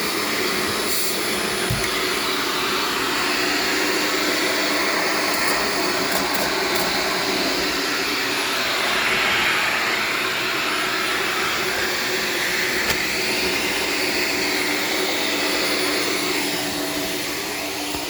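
Shark Stratos vacuum cleaner running steadily on carpet, its motor and airflow noise swelling briefly about halfway through.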